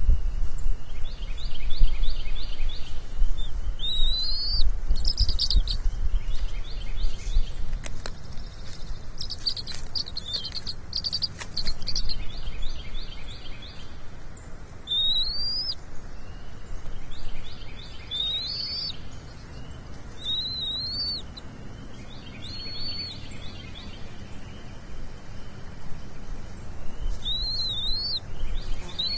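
Birds calling: short rising whistled notes every few seconds, mixed with fast trilled chirps, over a low rumble that fades after the first half.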